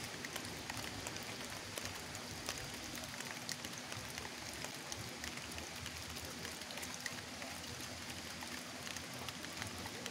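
Steady rain: an even hiss dotted with many short drop ticks.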